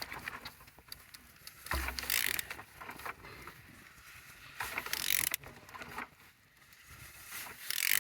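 A used car engine's crankshaft being turned over by hand with a wrench: mechanical ratcheting and rasping, with louder surges about every three seconds, one with a low thump near the start. The engine is turning freely with compression on all cylinders.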